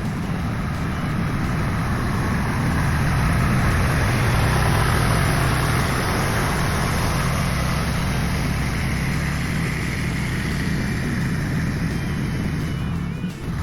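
A motor vehicle running steadily, a continuous engine and road noise that swells a little a few seconds in and then eases off slightly.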